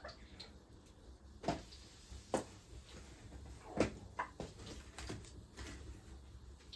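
Irregular knocks and clatters of kitchen work, about six sharp hits spread over several seconds with quiet between them.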